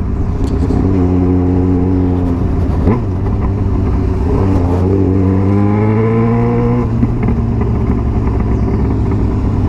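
Yamaha XJ6's inline-four engine running through a Jeskap 4-2-1 aftermarket exhaust while riding. The engine note holds steady, climbs gradually from about three and a half seconds in, then drops back near seven seconds in and settles to a steady drone.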